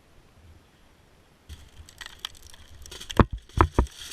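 Rustling and crunching of brush and twigs underfoot, with three sharp cracks in quick succession a little past halfway.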